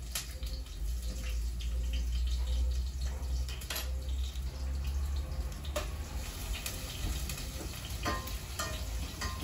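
Sliced onion sizzling in hot oil in a pot on a wood-fired stove, a steady hiss with a low rumble underneath. A spoon clicks against the pot now and then as it is stirred.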